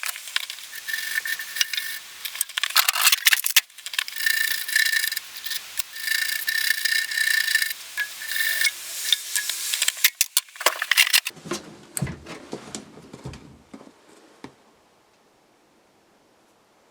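A brush scrubbing along steel bolt threads in quick, scratchy strokes, as copper anti-seize is worked onto the threads. This is followed by a few dull clunks of metal parts being handled.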